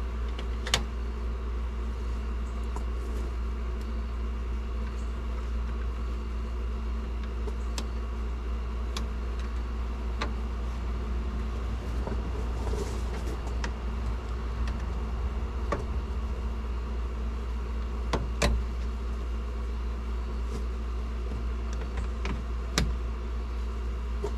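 A steady low hum throughout, with a handful of sharp clicks or taps scattered through it.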